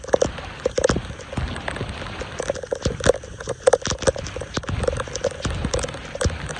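Water splashing and gurgling in irregular spurts, with sharp clicks and taps scattered throughout.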